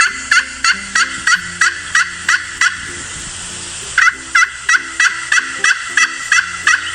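Male turkey gobbling: two fast runs of gobbles at about four a second, with a short pause between them, a call toms make to attract mates.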